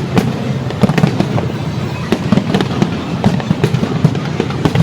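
Fireworks going off in a dense barrage: many overlapping bangs and crackling pops, several a second, over a continuous rumble.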